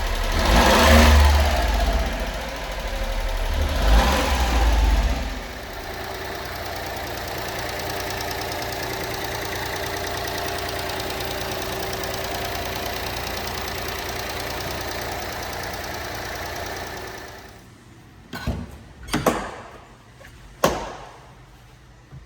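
1995 Honda Acty truck's small three-cylinder engine revved up twice, then idling steadily. About 17 seconds in, the engine note dies away, and it is followed by three sharp knocks.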